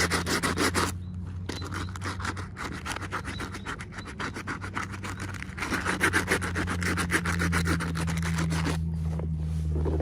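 Packaging or small toy parts rubbed and crinkled in the hands, a rapid crackly rustle that swells about six seconds in, over a steady low hum.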